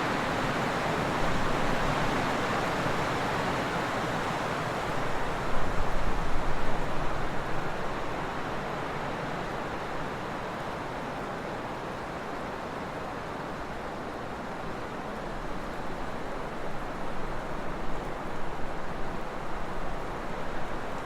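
Trade wind blowing steadily with an even rushing hiss. Gusts buffet the microphone with low rumbles about five seconds in and again near the end.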